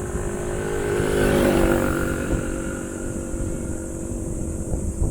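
A motor vehicle, most like a motorcycle, passing close by: its engine and tyre noise swell to a peak about one and a half seconds in, then fade.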